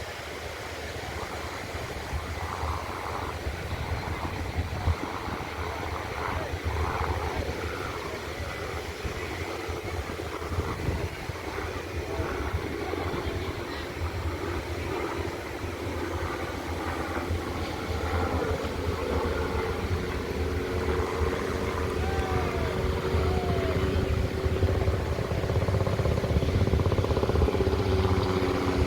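Wind rumbling on the microphone with faint distant voices. Past the middle, a steady motor drone comes in and grows louder, its pitch sinking slightly near the end.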